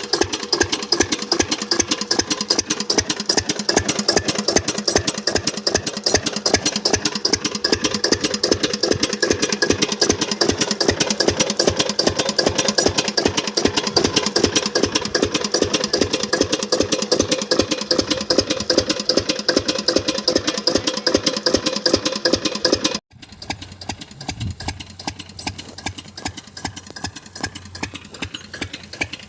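10 HP Mercury single-cylinder diesel water-pump engine running at a steady speed with a rapid, even chugging beat. About three-quarters of the way through, it suddenly drops to a quieter level and keeps chugging.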